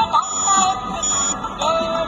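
Truck backhorn (brake and reverse alarm speaker) playing an electronic tune, a tinny synthesised melody with notes stepping up and down.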